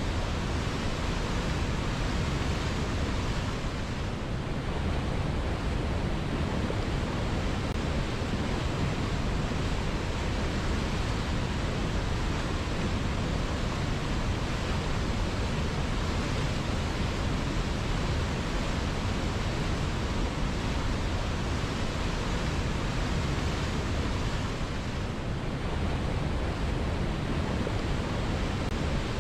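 Flowing river water rushing steadily, an even full-range noise without breaks or distinct splashes.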